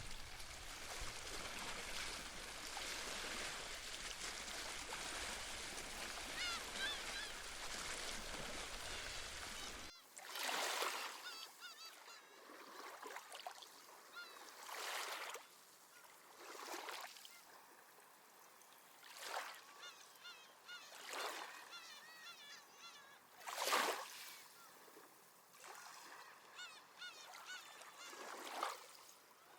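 Sea waves washing ashore with seabirds calling. A steady wash of surf for the first ten seconds cuts abruptly to separate wave washes every couple of seconds, the loudest about two-thirds of the way through, with short bird calls between them.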